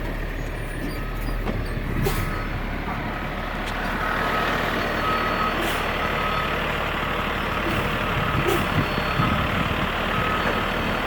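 Garbage truck's Caterpillar C7 diesel engine running while its backup alarm beeps steadily, about one beep a second, as the truck reverses. A few sharp knocks are heard over it.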